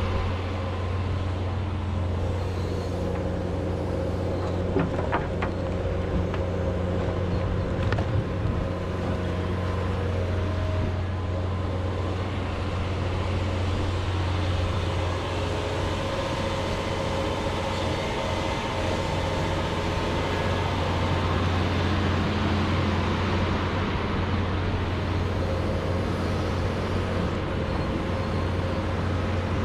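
John Deere 210G excavator's diesel engine running steadily under work, with a few sharp knocks about five and eight seconds in.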